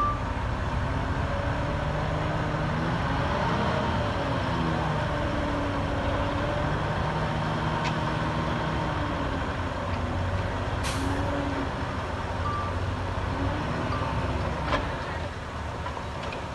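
Heavy diesel engine of earthmoving machinery running, its revs rising and falling, with a short hiss about eleven seconds in.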